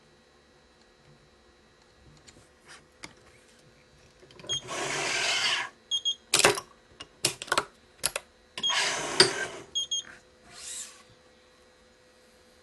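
Badminton string (Yonex Nanogy 99) is drawn through the racket's frame and strings with a long swish, twice, about a second each time. Several sharp clicks come between and after the swishes.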